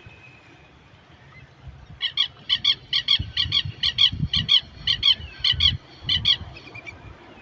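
A bird giving a rapid series of a dozen or more short, evenly repeated calls, about three a second, starting about two seconds in, over a steady wash of coastal sea ambience.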